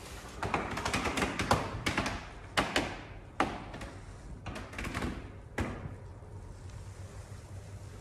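A run of irregular knocks and taps, several sharp ones close together in the first three seconds, dying away after about six seconds into a low steady background.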